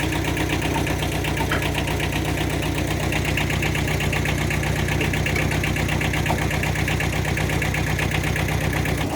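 Kubota TD15S mini dozer's engine idling steadily, its low note shifting just at the end.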